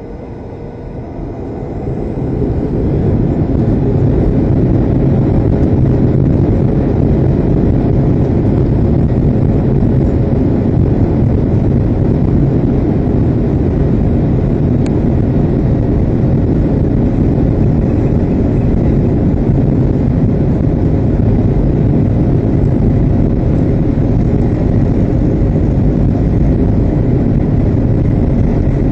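Boeing 737-700's CFM56-7B jet engines, heard from inside the cabin, spooling up to takeoff thrust over the first few seconds. They then run at steady, loud takeoff power with a low rumble.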